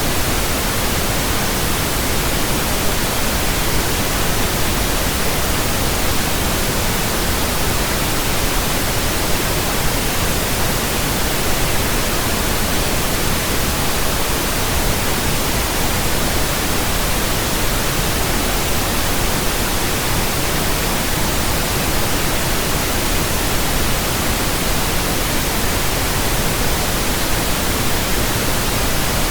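Steady pink noise from a pink noise generator, an even, unbroken hiss across the whole range, played as a burn-in test signal for speakers and headphones.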